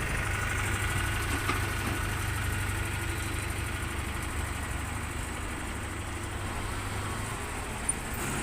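A bus engine running steadily at low revs amid street traffic; its low hum drops away about seven seconds in.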